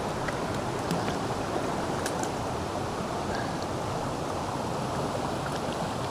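Steady rushing of a stream's current, with a few faint ticks.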